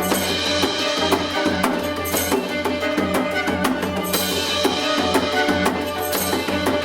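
Korean contemporary ensemble music with a gayageum, the plucked Korean zither, over fast, dense drumming and a steady low note.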